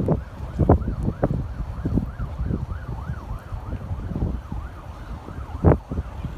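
An emergency vehicle siren, faint, rising and falling about twice a second, under gusts of wind buffeting the microphone.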